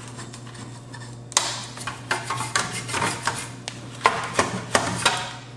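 A brush scrubbing dust off the receiver's circuit boards and metal chassis: scratchy bristle strokes with sharp clicks and clinks as it knocks against metal parts, a dozen or so irregular taps over a steady low hum.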